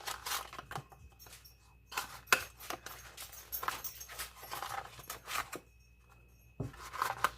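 Small cardboard snack boxes of raisins being handled, opened and emptied into a bowl: irregular light rustles, taps and clicks, with a short pause near the end.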